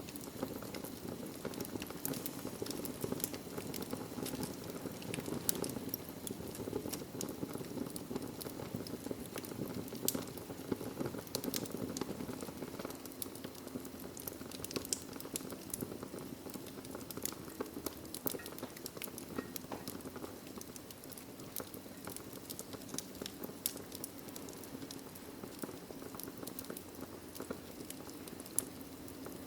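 Wood fire in a fireplace: burning logs crackling and popping with many irregular sharp snaps over a steady low rumble of flames.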